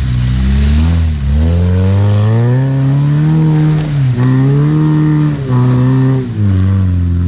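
Off-road vehicle's engine revving in several surges. About a second in, the pitch climbs from a low, steady note, dips briefly a few times in the middle, then drops back to a lower, steady note near the end.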